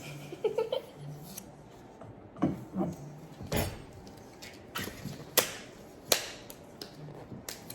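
Scattered light knocks and clicks, a few seconds apart, of food being served onto a plate: utensils and a container handled against the dish.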